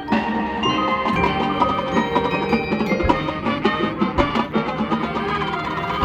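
Marching band playing, with mallet percussion striking quick notes over sustained band tones and a couple of deep drum hits in the middle.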